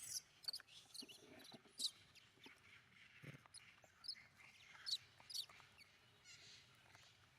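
Faint animal calls: a scatter of short, high-pitched chirps and squeaks, several falling in pitch, with a few soft clicks between them.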